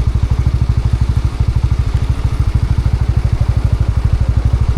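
Light motorbike's engine running at low revs, heard from on the bike as a steady, even chugging of quick low pulses as it crawls along.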